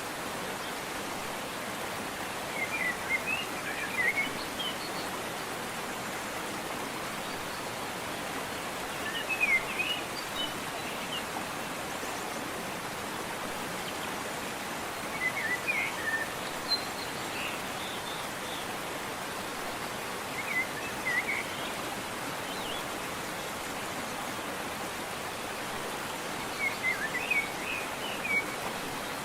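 Steady rush of a waterfall, with short bursts of bird chirping about every five or six seconds, five times in all.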